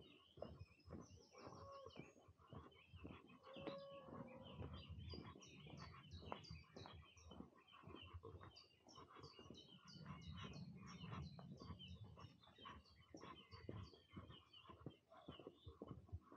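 Faint birdsong in spring: several small birds chirping and singing, with quick runs of high chirps from about five seconds in. Short clicks and rustles sound underneath throughout.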